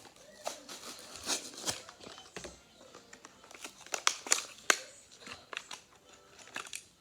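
A toy car's package being torn open by hand: cardboard and plastic crinkling and tearing in irregular bursts of crackles and clicks.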